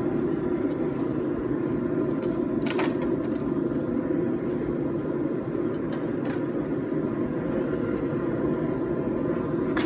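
A forge running with a steady rushing hum, with a few sharp clicks scattered through it.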